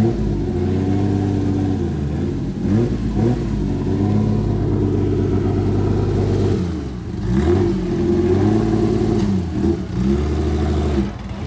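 Porsche 911 rally car's air-cooled flat-six idling, with several short throttle blips that rise and fall in pitch.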